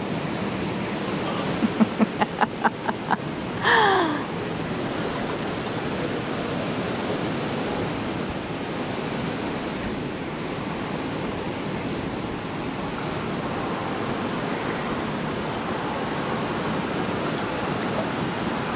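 Steady rush of turbulent water in a canal lock chamber as it fills, the churning that sets up eddies pulling on the boat. About two seconds in comes a quick run of about seven knocks, then a short falling squeak.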